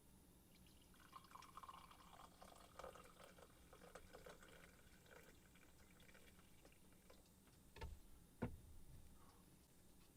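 Faint sound of liquid being poured into a container, lasting several seconds, followed by two sharp knocks.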